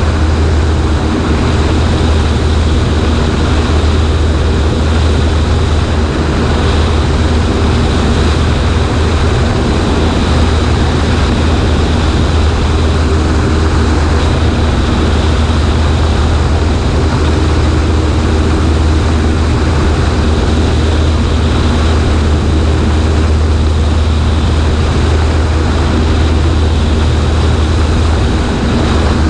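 Cessna 140A's engine and propeller running at a steady, unchanging drone, with the rush of wind over the microphone mixed in.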